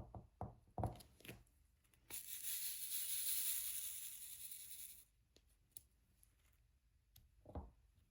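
Diamond painting handling sounds: a few light taps and clicks of the tools, then a dry rustle lasting about three seconds, and one more soft tap near the end.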